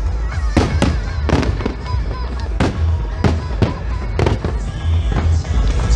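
Aerial fireworks bursting, with about ten sharp, unevenly spaced bangs in quick succession over a continuous low rumble.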